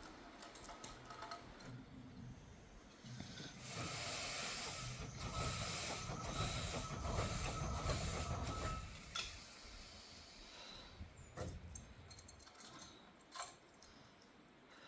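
Railway train rolling past slowly, a rumble with a thin steady squeal over it for several seconds, then fading to a few scattered metallic clanks and clicks.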